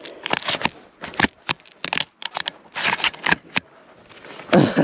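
Irregular crunching and rustling of footsteps pushing through dry prairie grass.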